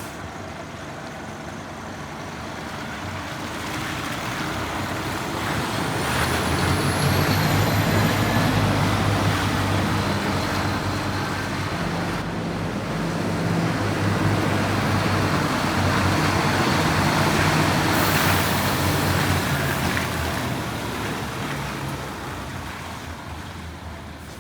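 Scania P230 truck's diesel engine running steadily, swelling louder after a few seconds and fading near the end. A hiss joins it about three quarters of the way through.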